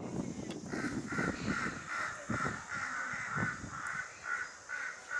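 A bird calling in a steady, even series of short repeated notes, about three a second, with some low rumbling noise under it for the first three and a half seconds.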